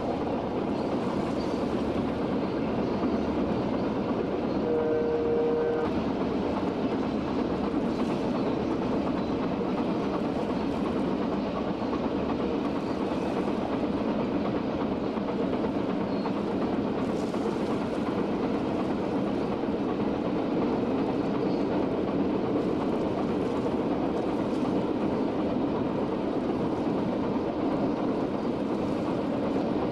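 CP Rail SD40-2 diesel locomotives and loaded coal cars running past, with a steady rumble of engines and wheels on the rails. The locomotive's horn sounds one blast of about a second, roughly five seconds in.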